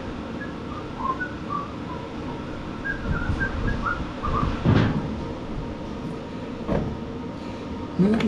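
Steady shop-fan noise, with short high bird chirps scattered through the first half and two sharp knocks a couple of seconds apart from a riding-mower battery being set back in.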